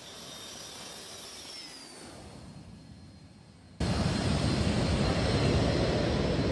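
Airplane engine noise. For the first four seconds or so, a moderate engine sound carries a high whine that slides slightly down in pitch. It then cuts abruptly to much louder, steady engine noise.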